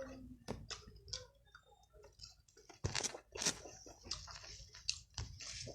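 A person chewing food close to the microphone: irregular wet mouth clicks and crunches, louder from about three seconds in.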